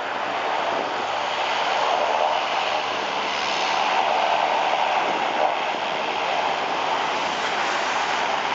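Passenger hovercraft's engines and air propellers running, a steady rushing drone with a faint low hum, growing louder over the first couple of seconds as the craft approaches.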